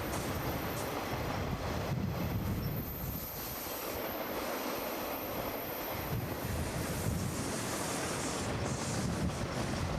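Train rolling past, a steady rumble of wheels on the rails.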